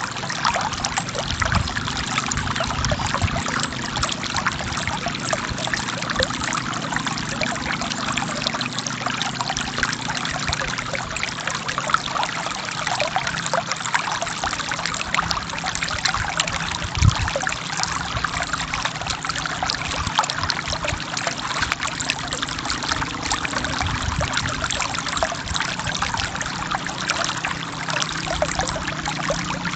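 A forest stream flowing steadily over rocks, a continuous trickling and splashing. There is one brief low thump just past halfway.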